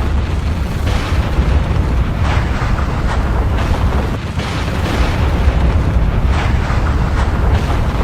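Volcanic eruption: a deep, continuous rumble with repeated bursts and crackling surges every second or two.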